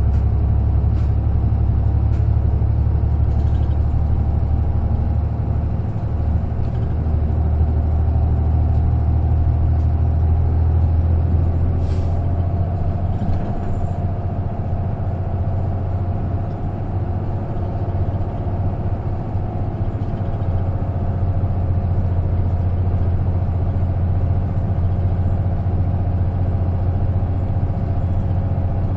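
Isuzu KK-LR233J1 non-step bus's diesel engine running steadily, heard from inside the passenger cabin, with one sharp click about twelve seconds in.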